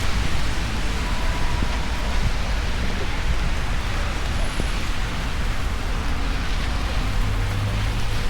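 Steady wash of rain and road traffic, with a low rumble growing stronger about seven seconds in as a vehicle passes.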